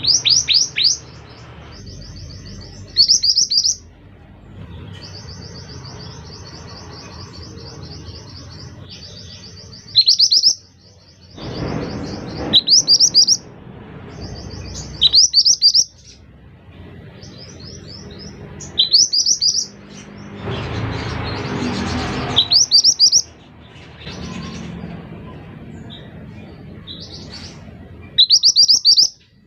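Scarlet minivet singing: loud groups of three or four sharply falling high whistles, repeated every few seconds, with fast high trills in between, over a steady background hiss.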